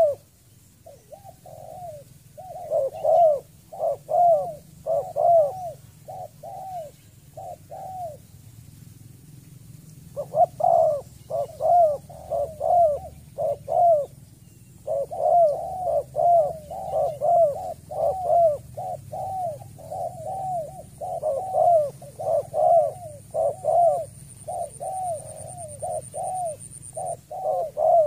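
Spotted dove, a wild bird caught in a small rope trap, calling in quick runs of low arched coos, about three a second. The runs break off for a second or two now and then.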